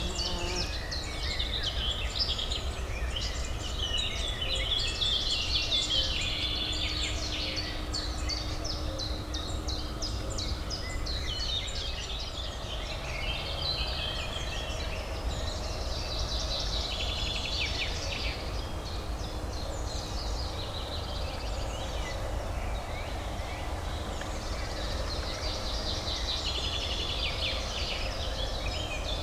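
Several songbirds chirping and trilling busily over a steady low urban hum.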